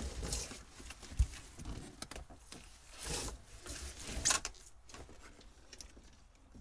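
Old boat wiring being pulled out and handled: irregular clicks, knocks and rustling scrapes, with a sharp thump about a second in.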